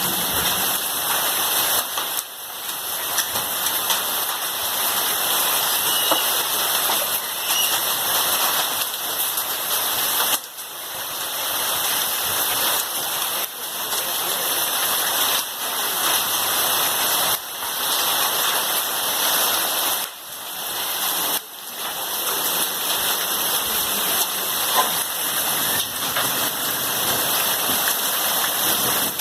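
Very heavy rain pouring down in a dense, steady hiss that briefly dips a few times.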